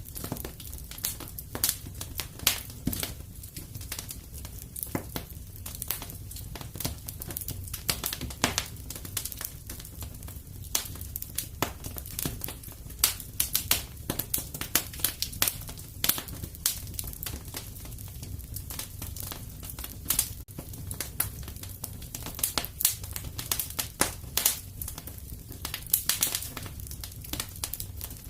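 Wood fire in a fireplace crackling, with many irregular sharp pops and snaps, a few louder than the rest, over a steady low rumble.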